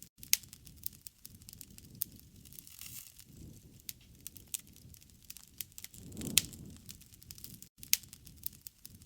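Wood fire crackling: irregular sharp pops over a low rushing of flames that swells twice, with a louder pop just after the start and another about six seconds in.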